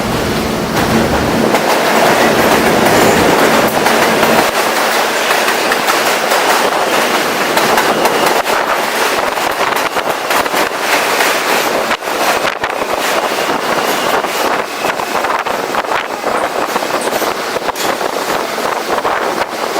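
F subway train running on its tracks, heard from the car roof: a loud, steady rushing of wheel and wind noise with many sharp clicks of the wheels over rail joints. A low steady hum fades out in the first few seconds.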